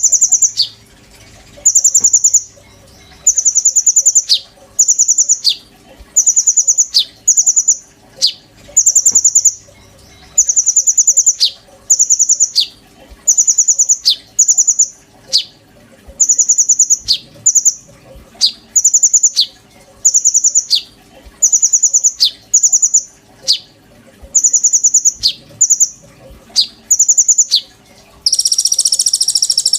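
A konin songbird singing in a loud, regular series of rapid high trilled phrases, about one a second, each ending in a quick downward note; near the end a longer, denser burst of song.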